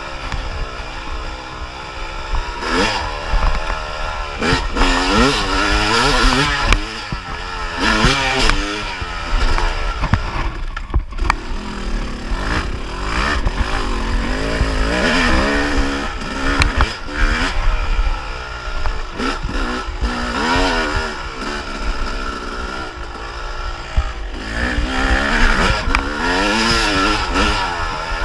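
Yamaha YZ250 two-stroke dirt bike engine revving up and down with the throttle, its pitch rising and falling every second or two, briefly dropping off about eleven seconds in. Occasional knocks from the bike over rough ground.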